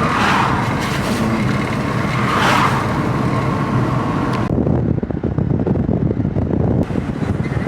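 Car driving, with steady engine and road noise. About halfway through, the higher hiss drops out suddenly, leaving a low rumble, and returns near the end.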